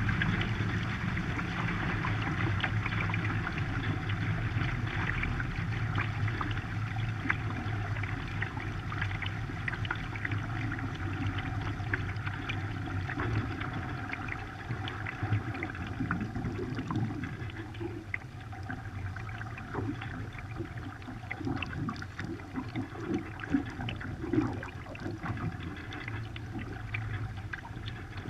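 Water rushing and splashing along the hull of a 14-foot Hobie Cat catamaran under sail, over a steady low rumble. Individual splashes grow sharper and more distinct in the second half.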